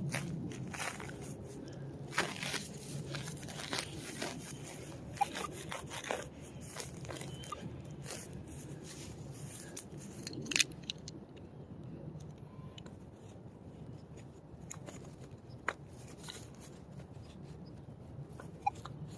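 A digging tool cutting into soil and scraping it out of a hole to dig a plug: repeated crunching and scraping with sharp clicks, busiest in the first half and sparser later.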